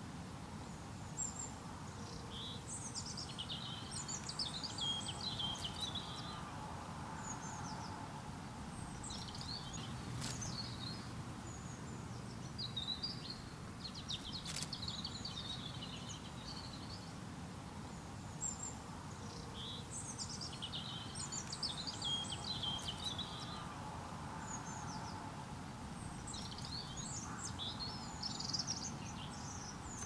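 Songbirds chirping and trilling in high clusters every few seconds, over a steady low background rumble.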